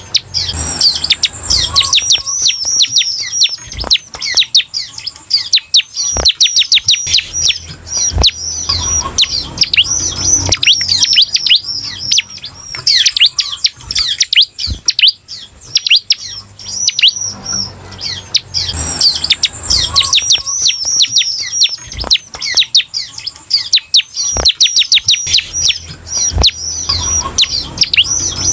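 Bar-winged prinia (ciblek) singing continuously: fast runs of short, sharp down-slurred chirps, broken by brief pauses every few seconds.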